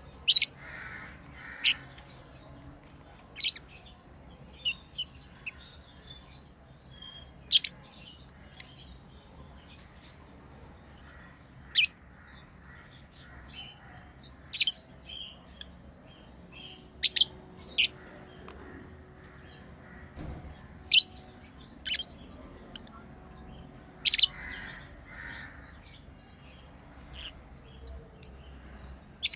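Pet lovebirds giving short, sharp, high-pitched chirps at irregular intervals, a couple of dozen calls in all.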